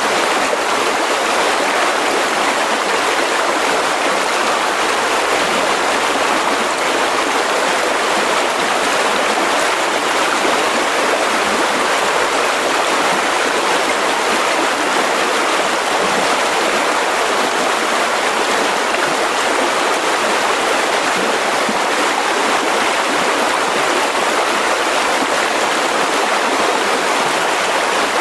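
Mountain river rushing over rocks: a steady, continuous flow of water with no breaks.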